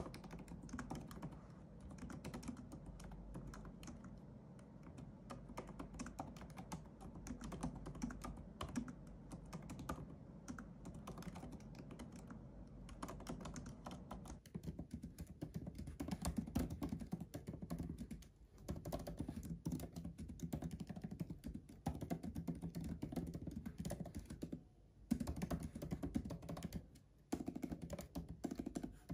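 Typing on a MacBook laptop keyboard: rapid, continuous key clicks, with a few brief pauses in the second half.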